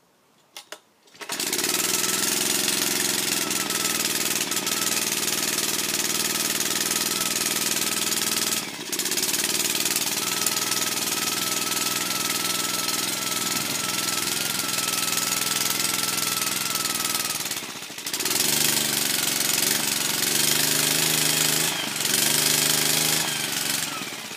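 Suffolk Colt 75cc four-stroke mower engine starting cold after a couple of short clicks, catching about a second in and running steadily. It briefly dips twice, about nine and eighteen seconds in, runs louder after the second dip, and dies away at the end.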